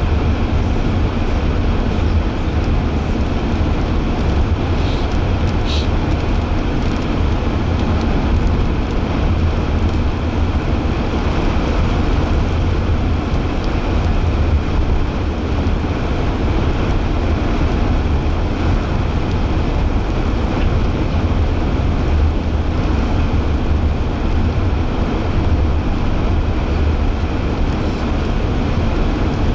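Steady road and engine noise inside a moving car's cabin, with a few faint clicks about five seconds in.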